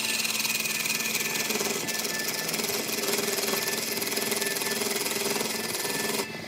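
Turning tool cutting into a large log spinning on a wood lathe, a loud rough scraping with a fast chatter as shavings fly off. It stops abruptly shortly before the end.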